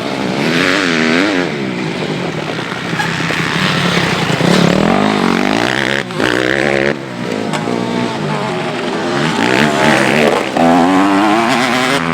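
Several motocross bikes' engines revving hard, their pitch rising and falling again and again as the riders work the throttle and shift, with brief drops in level about six and seven seconds in.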